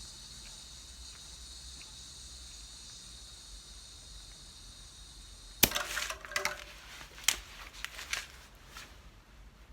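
A steady high hiss of air, then a sharp click about five and a half seconds in, followed by three seconds of scattered clicks and rattles from the cart-wheel tyre being worked on.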